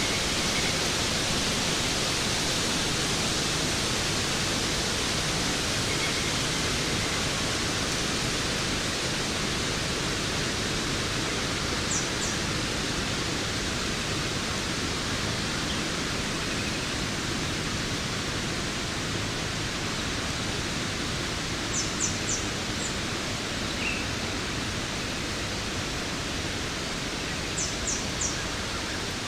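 Waterfall, a steady even rush of falling water. Three times, a quick cluster of short high chirps sounds over it.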